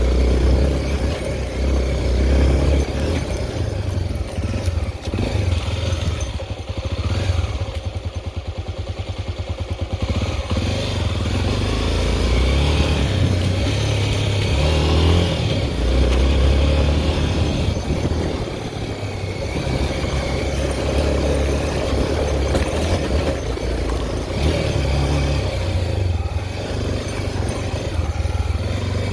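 Honda XR 250 Tornado's single-cylinder four-stroke engine running while the bike is ridden, its revs rising and falling. About seven to ten seconds in, the engine drops to low revs and its separate firing pulses can be heard, then it picks up again.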